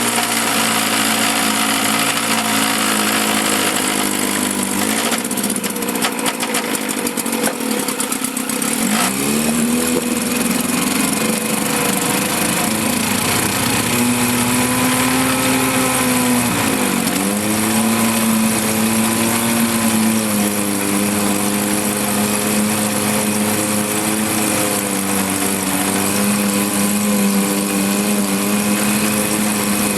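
1954 Johnson CD-10 5.5 hp two-stroke twin outboard running in a test barrel. It runs unevenly for a few seconds from about five seconds in, and its speed sags and picks back up twice.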